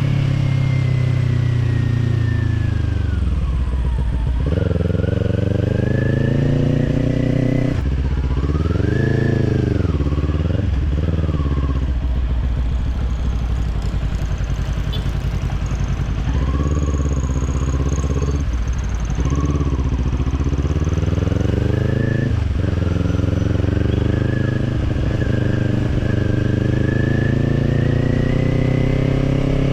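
Kawasaki Z400's parallel-twin engine running through an Orion Katya slip-on exhaust while the bike is ridden. The revs rise and fall again and again, dropping sharply about four seconds in and climbing steadily over the last several seconds.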